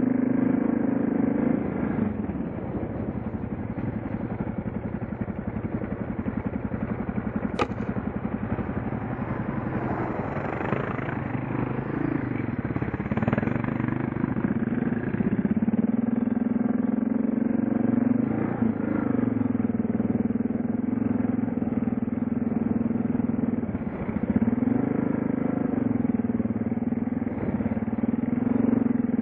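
Suzuki DR650's big single-cylinder engine running under way, its note falling off and picking back up several times as the throttle is eased and opened. One sharp click sounds about seven and a half seconds in.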